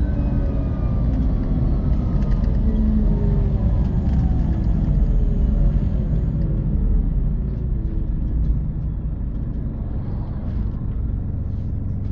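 Scania K450 coach's 13-litre six-cylinder diesel engine and road rumble as the bus slows: the engine note falls steadily for about eight seconds, then settles to a quieter, lower running rumble.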